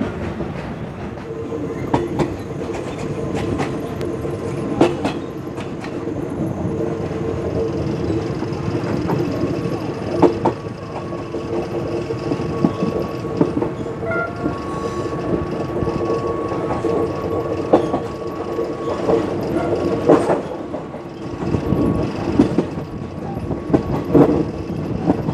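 Express passenger train hauled by a QSY diesel locomotive, heard from an open carriage window while running: wheels clacking over rail joints at irregular intervals over a steady rumbling drone.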